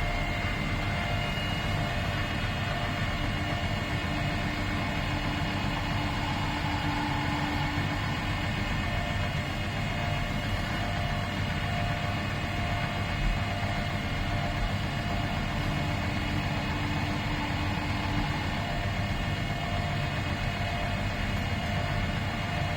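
2011 Miele PW 6080 commercial washing machine running steadily: a low rumble with a constant whine of several high tones, unbroken by pauses or changes.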